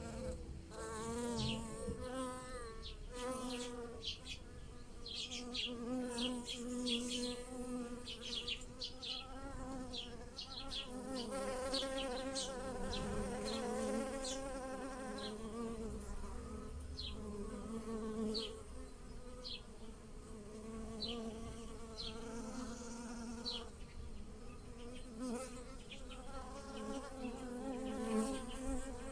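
Bees buzzing as they forage on lilac blossoms, several overlapping buzzes that waver up and down in pitch and swell and fade as they fly near and away. Frequent short high chirps are heard over the buzzing.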